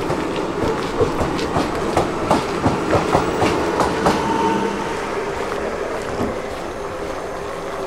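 Commuter train running, heard from inside the carriage: the wheels click over rail joints about three times a second with a steady whine and rumble underneath. About four seconds in the clicking stops and the sound eases off.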